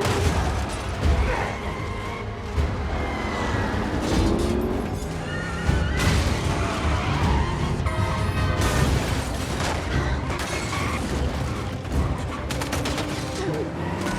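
Dense action-film sound mix: a driving film score over rumbling vehicle engines, with high gliding screeches and a few heavy crashing impacts.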